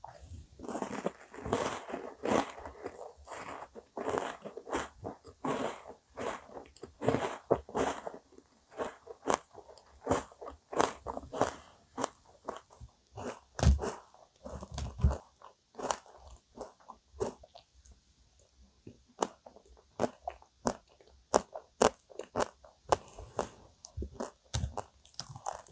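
Close-miked chewing of a crunchy mouthful of chocolate-topped ice cream cake: crisp crunches and wet mouth clicks, dense at first and thinning out later, with a couple of dull bumps about halfway through.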